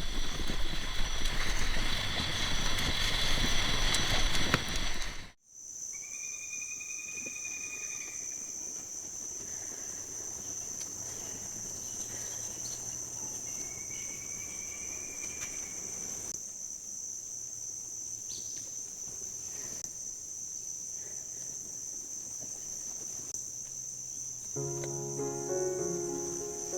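Steady high-pitched chorus of crickets, which takes over after a loud noise cuts off suddenly about five seconds in. A few short gliding calls sound over it, and near the end come a few seconds of stepped, note-like tones.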